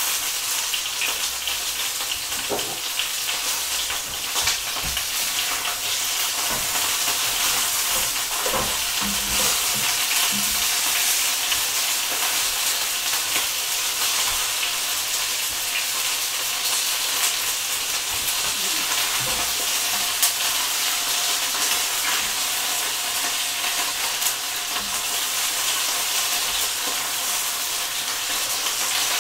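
Chicken thighs frying in a wide pan, a steady sizzle with a few faint clicks; near the end the pieces are turned with tongs.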